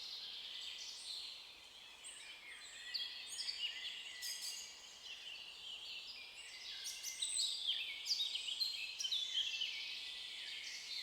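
Songbirds chirping and singing, many short calls with rising and falling pitch overlapping one another.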